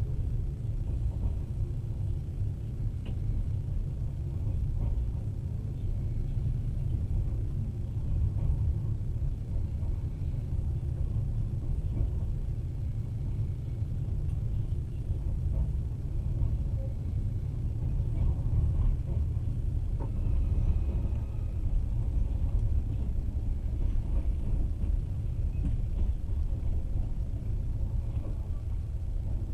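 Moving passenger train running along the track: a steady low rumble with a few faint scattered clicks.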